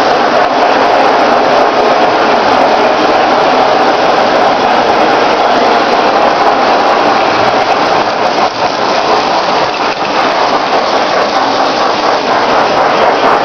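Lionel O-gauge toy train running on Super O track: a loud, steady whirring rumble of the electric motor and wheels on the rails.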